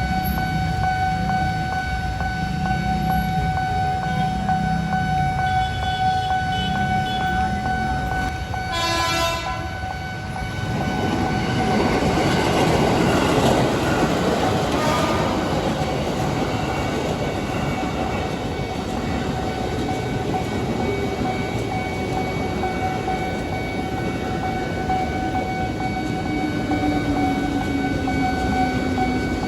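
Train sounding its horn in one blast of about a second and a half, about nine seconds in, then passing over the level crossing with the rumble and clatter of wheels on rail. A steady electronic crossing-signal tone sounds throughout.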